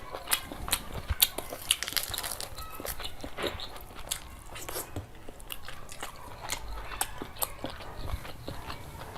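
Close-miked eating: a person chewing and biting into curry with rice, with many irregular sharp wet clicks and crunches.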